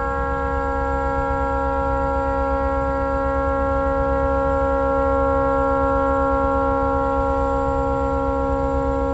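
A tugboat's horn stuck on and blaring without a break, one steady multi-tone chord that does not change pitch; the horn has malfunctioned and cannot be shut off.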